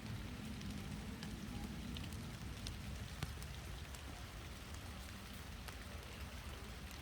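Steady rain falling, with scattered individual drops ticking close by and one louder drop hit about three seconds in.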